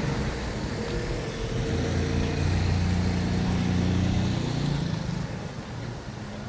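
A motor vehicle's engine running close by, a low steady hum that grows louder a couple of seconds in and fades away near the end, over street background noise.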